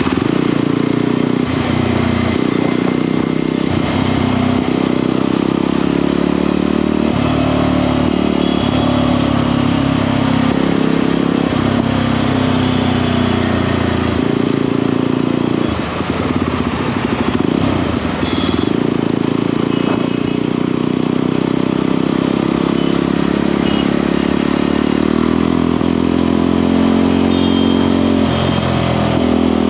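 Motorcycle engine running under way, its note stepping up and down every few seconds as the throttle and revs change.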